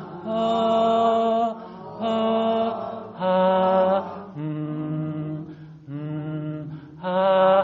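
A voice chanting meditation toning: about six held vowel tones, each roughly a second long with short breaths between. The pitch steps up and down between low, middle and high notes, the three tones sung for the belly, chest and head.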